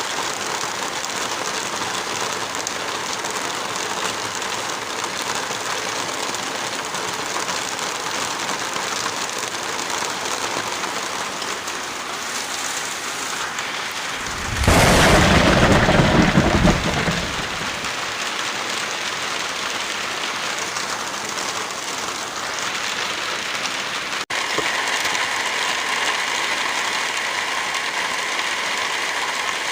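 Steady rain falling. About halfway through, a loud rumble of thunder breaks in suddenly and lasts about three seconds before fading back under the rain. Near the end the rain cuts abruptly to a slightly louder, hissier layer.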